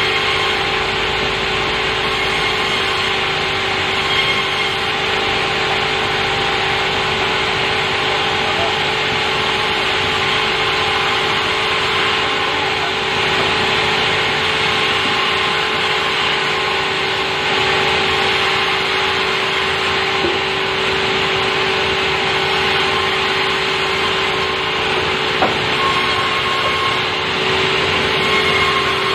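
Sawmill saw cutting steadily through softwood: a continuous, even cutting noise over a steady hum that holds unbroken throughout.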